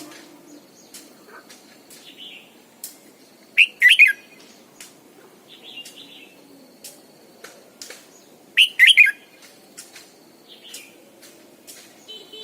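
Red-whiskered bulbul singing: two loud, short whistled phrases about four and about nine seconds in, with softer chirps between them.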